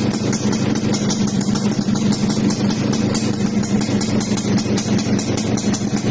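Suzuki Satria 120 two-stroke motorcycle idling steadily through an aftermarket expansion-chamber exhaust, with no revving.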